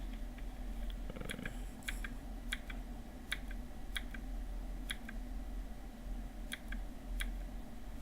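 Scattered, irregular clicks of someone working a computer, some in quick pairs, over a steady low electrical hum.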